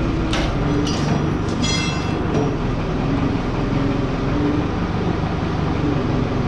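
Steady low mechanical rumble of a running machine. Over it come a few sharp metal clinks and, about two seconds in, a ringing clank of steel parts being handled.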